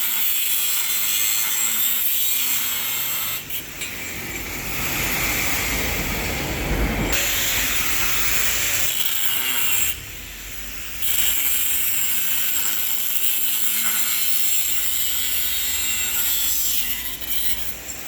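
Makita angle grinder with a cut-off disc cutting steel tube: a loud, high-pitched grinding whine. It eases off briefly twice, about three and a half seconds in and around ten seconds in, and again near the end.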